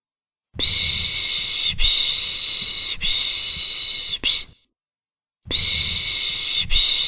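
Baby-soothing 'shh' shushing: long hissing hushes pulsing about once every second or so, with a short pause about half a second in and another about four and a half seconds in.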